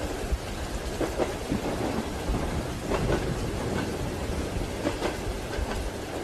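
Steady rain hiss over a low rumble, with the rhythmic clickety-clack of train wheels running over rail joints about once a second.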